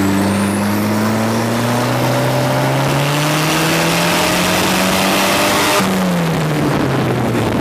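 Tractor engine accelerating hard, its pitch climbing steadily for about six seconds, then dropping as the revs fall away near the end.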